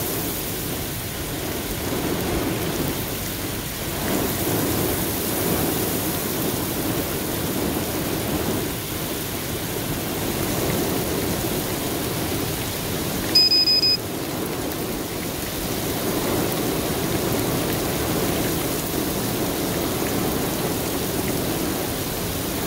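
Heavy thunderstorm rain pouring down steadily, swelling and easing every few seconds as strong wind gusts drive it. About halfway through, a short high electronic beep sounds once.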